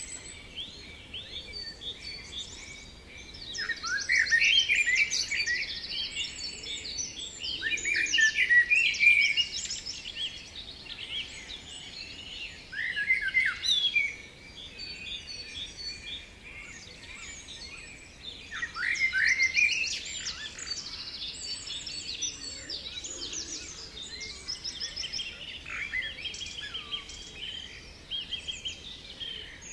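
Several songbirds singing at once, a busy chorus of quick chirps, trills and short falling notes, with louder phrases every few seconds.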